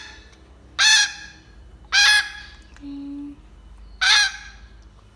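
Three short, harsh, honking begging calls from a hungry grey parrot being hand-fed, about a second apart.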